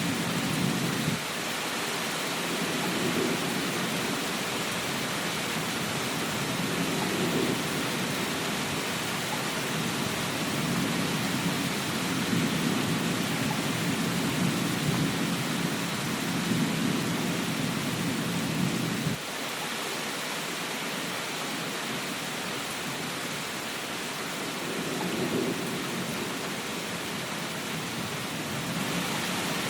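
Steady rain hiss with a low rumble that swells and fades over it. The rumble drops away sharply about a second in, returns, then cuts off abruptly about two-thirds of the way through.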